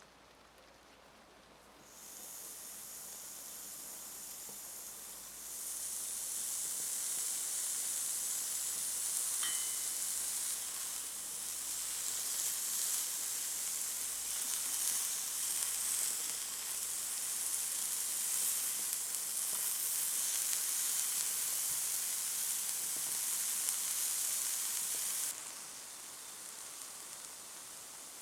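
Food sizzling in hot oil in a frying pan: a steady, high-pitched hiss that comes in a couple of seconds in, steps up louder shortly after, and cuts off sharply near the end. A brief light clink rings out about ten seconds in.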